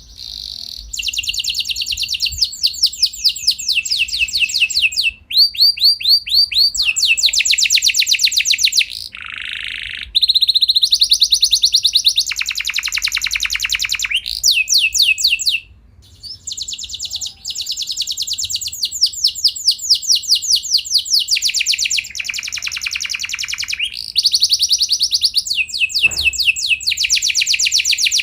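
Domestic canary singing a long rolling song: fast trills of rapidly repeated notes, switching from one trill type to the next every second or two, with brief pauses about ten seconds in and again around sixteen seconds.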